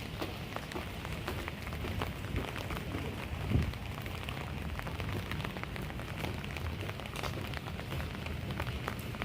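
Steady rain falling, with many small drop ticks over an even hiss and a low rumble underneath; one short thud about three and a half seconds in.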